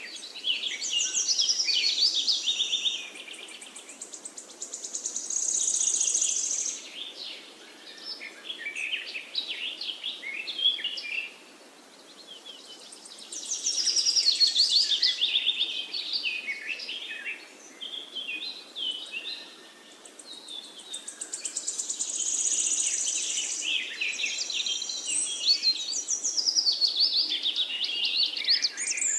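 Parakeets chirping and chattering in fast, high trills and warbles, in bouts a few seconds long with short quieter lulls between.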